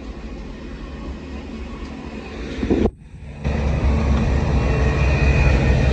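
Passenger train running, heard from on board: a steady low rumble of the carriage on the track. It cuts out briefly about three seconds in and comes back louder.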